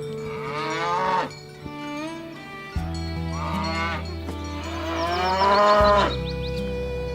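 A cow mooing twice, a short call in the first second and a longer, louder one from about three seconds in, over background music with a steady bass line.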